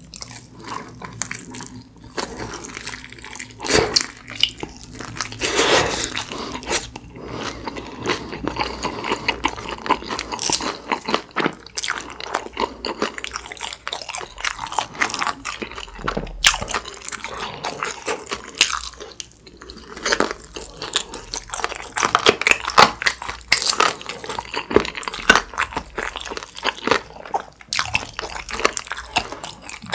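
A person biting into and chewing a mouthful of sauce-coated fried chicken drumstick. The crisp coating crunches in quick, irregular strokes throughout.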